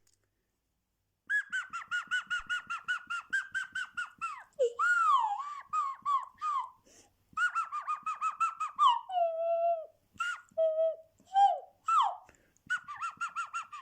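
Nose flute played as birdsong: fast warbling trills of about seven notes a second, broken by swooping glides up and down and a few short pauses.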